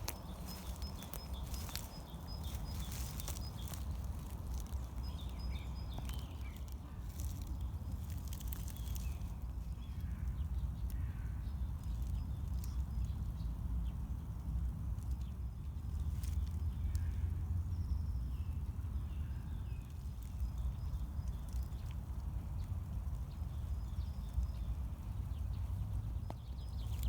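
Outdoor park ambience: a steady low rumble, with scattered clicks in the first nine seconds or so and faint short bird calls.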